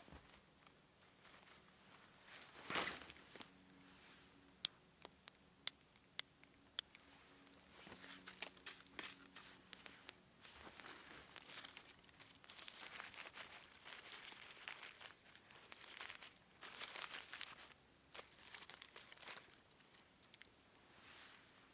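Crinkly material being handled and rustled, with scattered sharp clicks and a louder swish about three seconds in.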